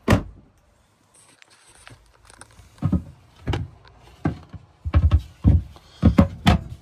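Cabinet doors and panels in a truck camper being handled, opened and shut: a series of sharp knocks and thumps, one at the start and a quicker cluster in the second half.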